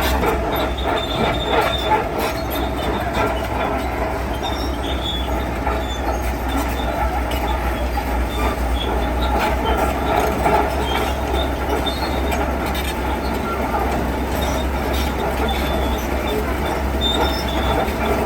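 Heavy diesel construction machinery running steadily under load, with high metallic squealing and light clanking of the kind steel crawler tracks make.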